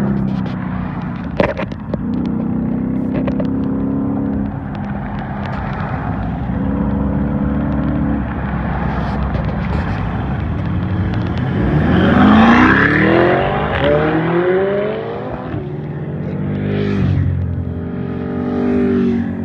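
High-performance car engines running as cars pull out onto the road. About twelve seconds in, one accelerates hard, its engine note climbing steeply for a few seconds. Near the end another engine revs up.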